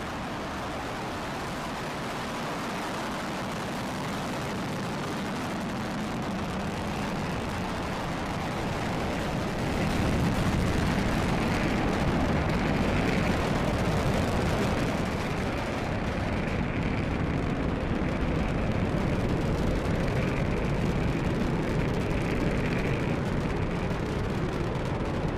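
Roar of a Falcon 9 rocket's nine Merlin first-stage engines during ascent just after liftoff, a steady rumble that grows louder about ten seconds in.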